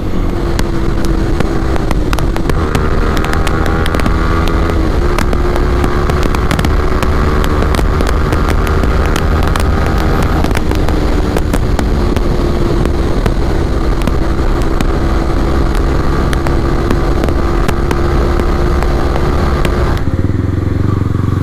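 Yamaha R15 V3's 155 cc single-cylinder engine running through an Akrapovic exhaust with the dB killer removed, under way, its note holding steady and then stepping to a new pitch several times, over a heavy low rush of riding noise.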